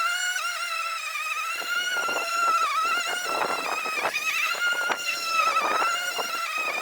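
Einhell GE-CM 18/33 cordless battery lawn mower running, its motor and blade giving a high steady whine that sags slightly in pitch now and then as it takes load, over the rustle of grass being cut.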